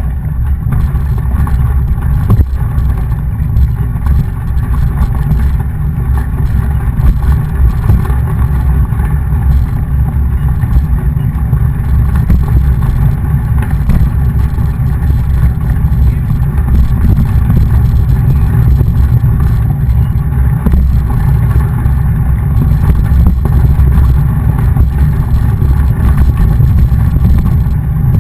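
Wind buffeting a camera microphone with the low, steady rumble of a mountain bike being ridden over trail or road.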